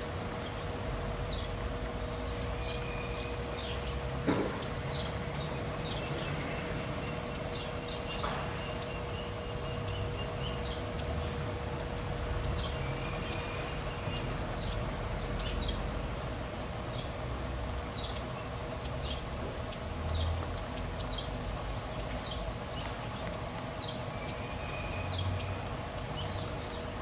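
Birds chirping: many short, high calls scattered throughout, over a steady hum. There is a sharp click about four seconds in.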